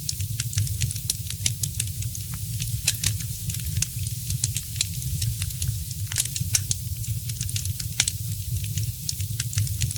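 Wood fire crackling in a fireplace: many sharp, irregular pops and snaps, several a second, over a steady low rumble and hiss of the burning logs.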